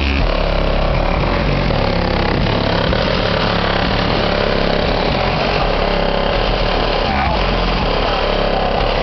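Car engine idling steadily, a constant low hum with no revving or change in pitch.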